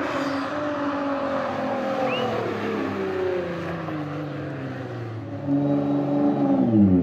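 Nissan GT-R R35 twin-turbo V6 with a Meisterschaft aftermarket exhaust driving past. The engine note slides down in pitch over the first few seconds, then grows louder and drops sharply in pitch near the end as the car passes close by.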